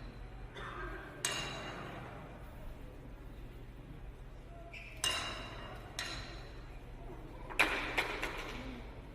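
Glassware clinking: about five separate strikes, each ringing out briefly, two of them close together near the end.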